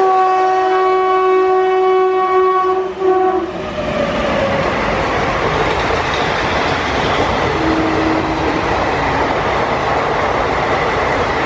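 Indian Railways electric locomotive sounding its horn, one steady note held for about three and a half seconds, then the train passing close by with a loud steady rumble and wheels clattering over the rail joints, in heavy rain.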